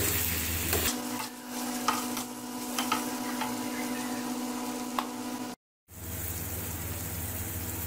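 Mutton liver in yogurt masala sizzling on a flat iron tawa at the bhuna (roasting) stage, with a few light clicks and scrapes of a metal spatula stirring it. The sound drops out for a moment a little past halfway, then the steady sizzling carries on.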